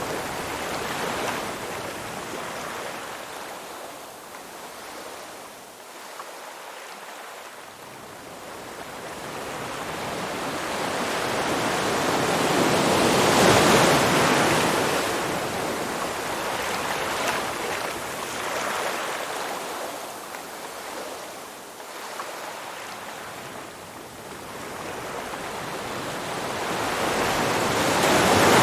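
Waves washing onto a shore: a steady hiss of water that swells slowly to a peak about halfway through, falls away, and builds again to a second peak at the end.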